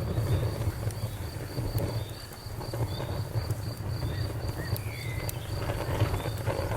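Crickets chirping in a steady, even rhythm over the low rumble of a campfire, with a few faint crackles. About two-thirds of the way through, a bird gives a short whistled note.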